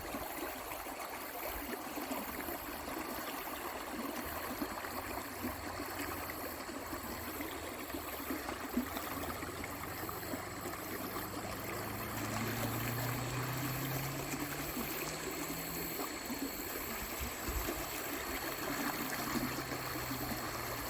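Steady rush of flowing stream water. A low hum rises slightly in pitch for several seconds past the middle.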